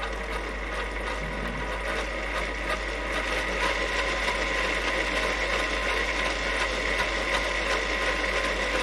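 Axial SCX10 III RC crawler's electric motor and geared drivetrain running steadily, with a high gear whine; its front axle carries an overdrive gear set.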